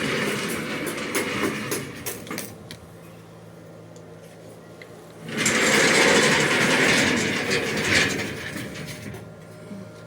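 Pet cremation furnace machinery running over a steady low hum, with two loud noisy spells: the first fades out about two seconds in, the second runs from about five to nine seconds.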